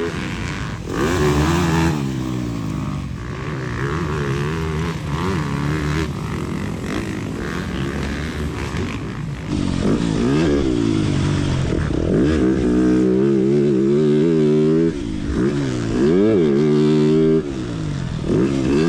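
TM 300 Fi dirt bike engine revving hard and backing off again and again while being ridden on a motocross track, its pitch rising and falling many times.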